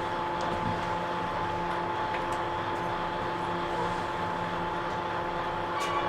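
Interior sound of a JNR 113 series 1500 electric train: a steady rumble with a constant hum held at one pitch, and a short click near the end.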